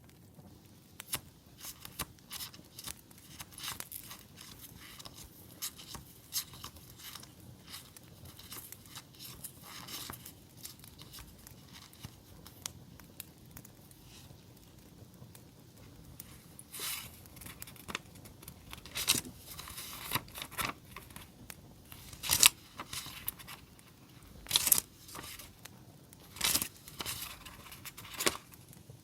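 Paper and sticker packaging handled close to the microphone: crinkling and tearing, with louder tearing or peeling rasps several times in the second half. Behind it run the small, scattered crackles of a campfire.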